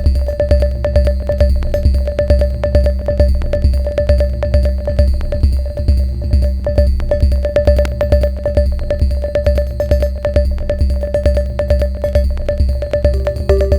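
Improvised techno groove from a Sonic Potions LXR-02 digital drum machine: a steady, evenly repeating kick drum under fast clicking percussion and a short repeating pitched note. A new held synth tone comes in near the end.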